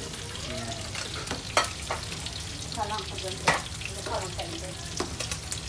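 Food sizzling on the stove in a steady hiss while a sauce of spaghetti, corn and sausage is stirred in an aluminium pot, the metal spoon knocking against the pot about four times.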